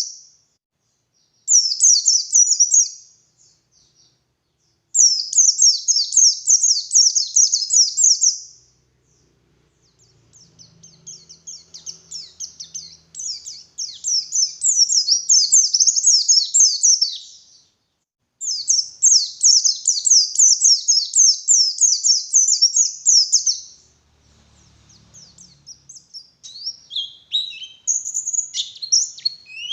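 White-eye (pleci) singing: bouts of rapid, high chattering song a few seconds long, separated by short pauses, turning to looser, falling notes near the end.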